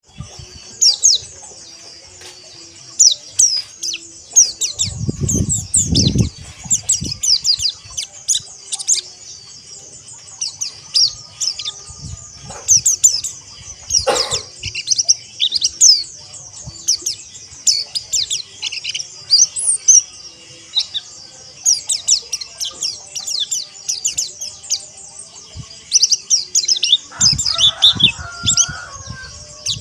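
A flock of white-eyes (pleci) chattering together in rapid, overlapping high chirps and twitters, the fast rough 'ngeriwik' chatter. A few low thuds sound about five seconds in and again near the end.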